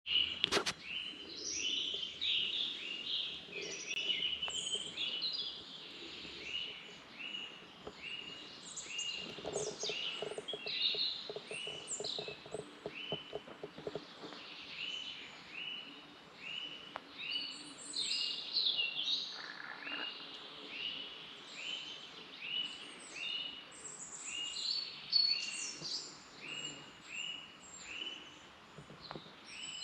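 Several birds singing in a chorus, one of them repeating the same short note about twice a second throughout while others add higher chirps and trills. A rapid patter of low clicks runs for a few seconds around ten to fourteen seconds in.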